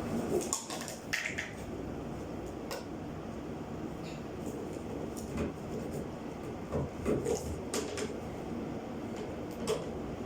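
Scattered clicks and light clanks of tools and metal parts being handled, over a steady low hum.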